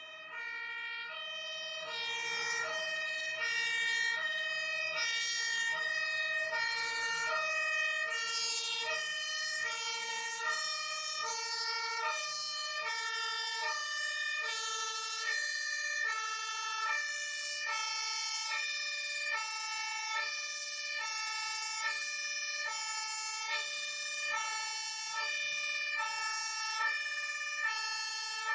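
Two-tone emergency vehicle siren switching back and forth between a high and a low pitch, about once a second, over a steady high tone.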